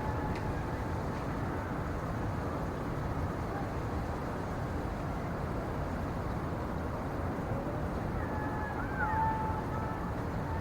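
Winter forest ambience: a steady low rushing noise, with a few faint short whistled notes about eight to nine seconds in.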